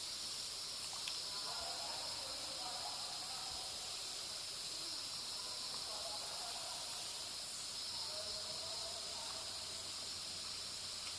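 Steady, high-pitched drone of insects in forest ambience, with a single faint tick about a second in.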